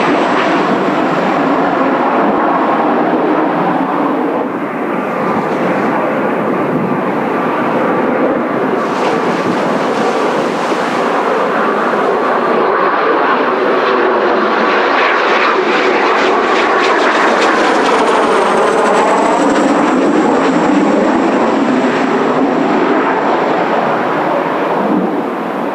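Kawasaki T-4 jet trainers' turbofan engines running loud and steady as the jets come in to land. The sound shifts as they pass, and a high whine bends downward a little past the middle.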